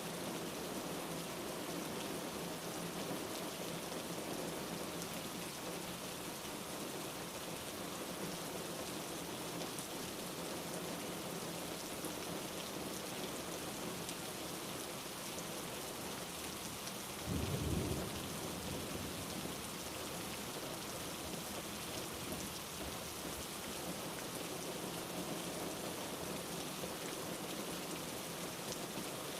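Steady rain falling, with one short low rumble of thunder a little past the middle.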